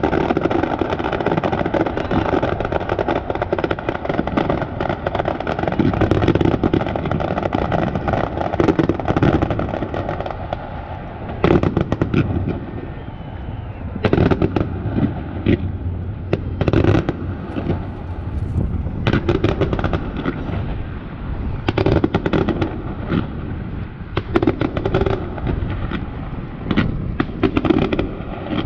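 Fireworks display going off: a rapid run of bangs and crackling bursts over a steady low rumble, with sharper separate bangs through the second half.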